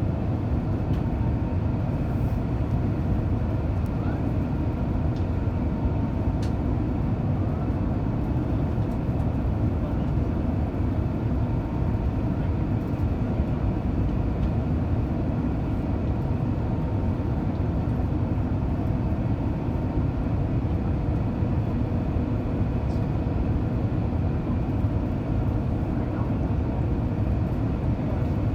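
Steady, even cabin rumble of an Airbus A350 on the ground after landing, with its Rolls-Royce Trent XWB engines running, heard from inside the passenger cabin.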